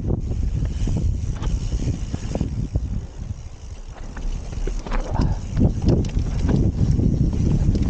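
Wind buffeting the microphone of a camera riding on a mountain bike, with the bike rattling and its tyres clattering over rough ground. The rumble eases briefly about three seconds in, then the knocks come thicker near the end.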